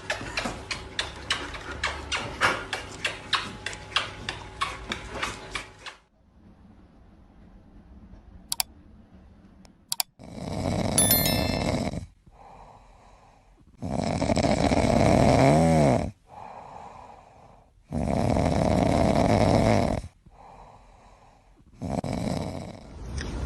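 Loud snoring in regular breaths about every four seconds, starting about ten seconds in. Before it comes a run of quick clicks or taps, three or four a second, which stops about six seconds in.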